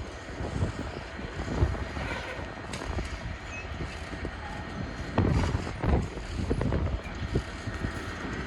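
Wind gusts buffeting the microphone over the low rumble of a train, with a few stronger gusts from about five seconds in.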